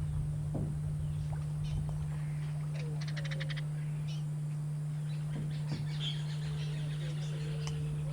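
Scattered short bird calls, including a quick rattle of about eight notes, over a steady low hum and rumble.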